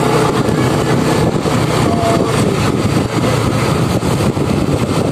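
Scooter-type motorcycle engine running steadily while riding at moderate speed, with wind and road noise rushing over the rider's microphone.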